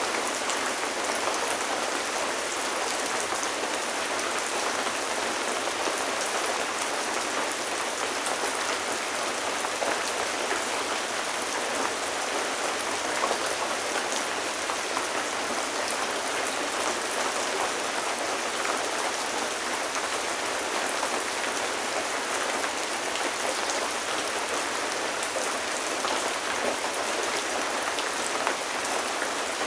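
Steady rain falling, a dense even patter of drops with scattered individual drop ticks and no low rumble.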